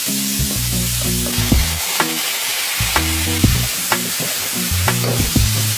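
Chicken giblets sizzling in hot oil as they are stir-fried, with a spatula knocking and scraping against the pan about twice a second.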